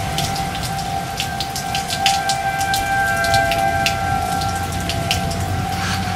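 Rain falling, with many separate drops hitting close by, over a steady high hum.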